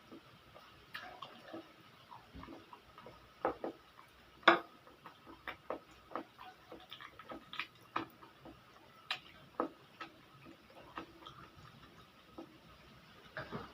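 Person eating pancit canton noodles: irregular soft clicks and smacks of chewing and utensil taps, with a sharper click about four and a half seconds in.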